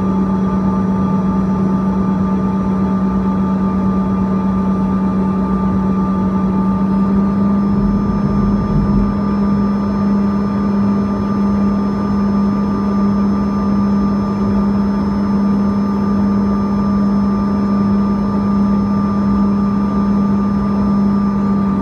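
Bombardier CRJ-200's rear-mounted GE CF34 turbofan engines running steadily, heard inside the cabin as a loud hum with a steady whine above it. The pitch steps up slightly about seven seconds in, with a short low rumble just after.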